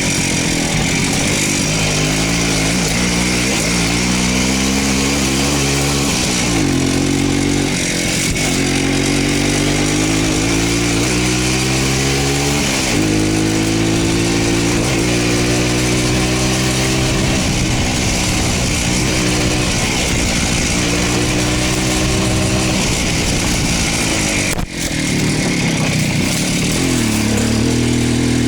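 Voskhod motorcycle's two-stroke single-cylinder engine running under way. Revs climb and then drop sharply at gear changes, twice in the first half, then rise and fall more gently, with a short dip in sound near the end.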